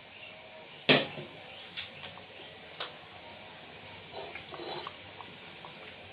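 Cooking-pot clatter: one sharp knock about a second in, then a few lighter clicks and a short scraping patch, over a steady hiss of food simmering in the pot.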